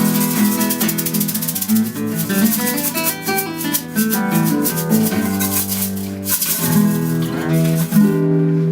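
Instrumental band music: strummed guitars playing chords, with a fast rattling rhythm on top that drops away just before the end.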